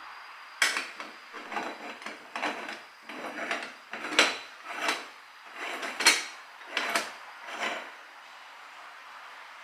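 A series of about a dozen short scraping strokes in an irregular rhythm, roughly one every half to three-quarters of a second, stopping a little before the end.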